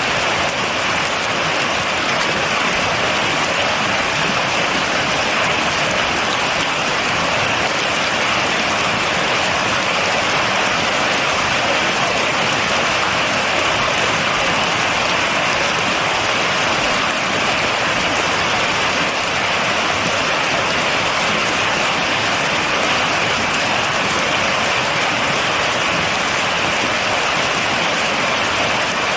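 Steady heavy rain falling and pattering on surfaces, without thunder.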